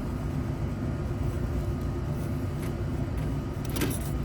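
Steady low machinery hum, with a few light clicks near the end.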